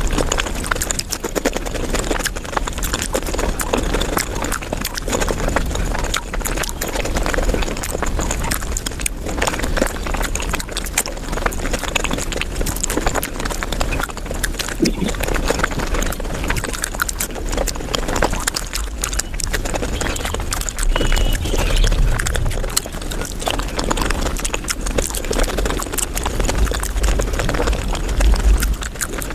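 Mukbang eating sounds of dahi puri played at five times normal speed: a dense, rapid run of crunching and chewing clicks.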